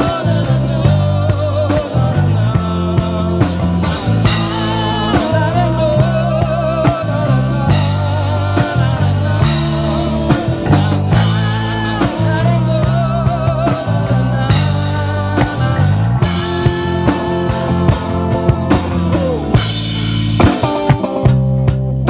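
Live rock band playing an instrumental break: a lead line of held, wavering notes over bass guitar and a drum kit.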